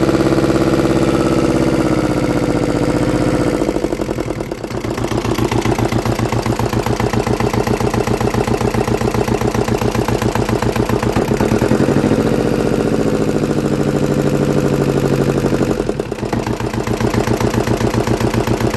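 Yanmar 2GM two-cylinder marine diesel engine running with a steady, even beat. Its speed drops about three seconds in and swings up and back down again about two thirds of the way through.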